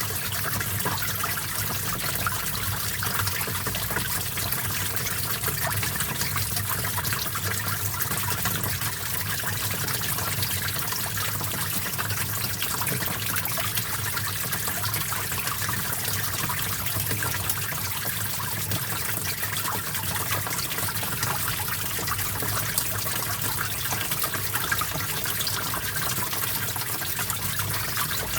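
Small stream of water trickling and babbling steadily over rocks, a continuous splashing noise with no pauses.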